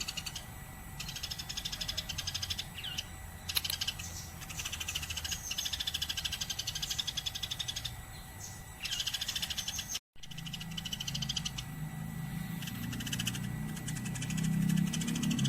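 Eurasian tree sparrow chirping in fast, continuous runs of high, rapid chirps. The sound drops out briefly about two-thirds of the way through, and a low musical tone swells in near the end.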